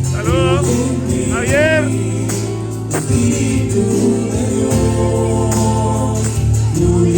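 Christian worship song: voices singing over sustained low accompaniment, with a single click about three seconds in.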